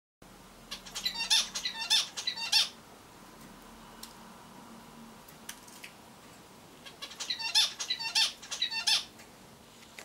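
Small cage birds calling in two bursts of short, harsh, nasal chirps: the first about a second in lasting about two seconds, the second about seven seconds in lasting about two seconds, with quiet between.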